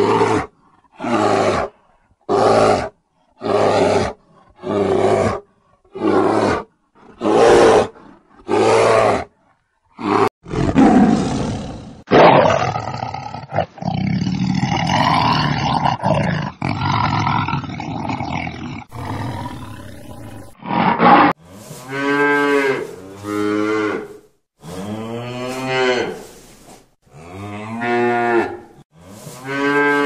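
About eight short, evenly spaced animal calls, then a long lion roar through the middle, then cattle mooing, several moos in a row in the last third.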